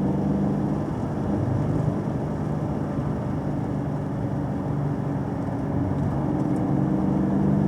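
A vehicle's engine running while being driven, with tyre and road noise. The engine note drops about a second in and climbs again near six seconds, as the revs fall and pick up on the road.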